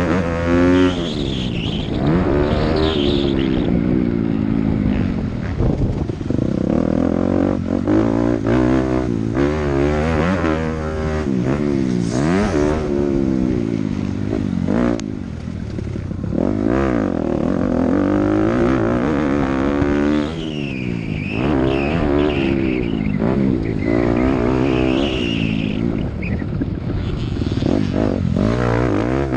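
Dirt bike engine revving hard and easing off again and again, its pitch climbing and dropping every second or two as the rider works the throttle and shifts gears around a motocross track.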